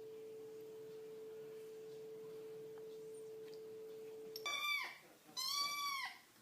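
A faint, steady pure tone that stops about four and a half seconds in, followed by a cat meowing twice, two short high calls that rise and fall.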